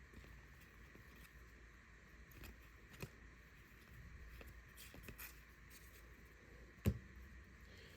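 Faint handling of trading cards and their packaging: scattered soft clicks and taps, with one louder knock about seven seconds in.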